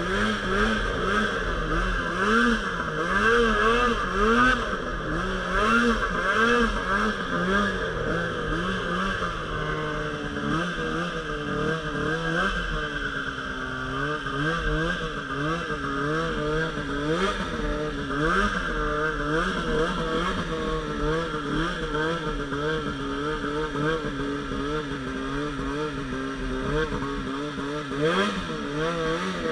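Polaris RMK Pro 800 snowmobile's two-stroke engine being ridden with constant throttle changes. Its pitch swings up and down every second or so as it revs and eases off.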